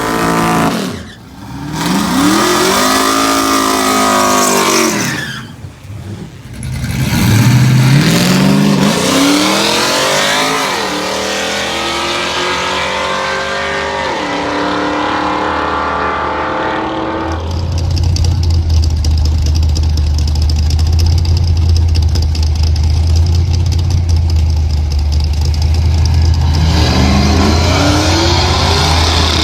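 Cammed 5.3-litre LS V8 in a Chevrolet S10 pickup revving and accelerating hard, its pitch sweeping up and down several times. After about seventeen seconds it settles into a steady low drone, then climbs in pitch again near the end.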